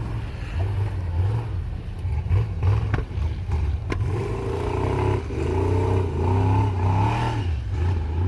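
Prerunner truck engine revving on and off the throttle, its pitch rising and falling repeatedly through the second half, with two sharp knocks about three and four seconds in.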